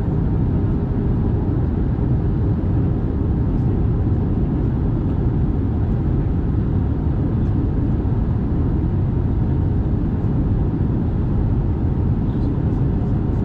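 Steady low roar inside an Airbus A320's passenger cabin in flight: engine and airflow noise, even throughout.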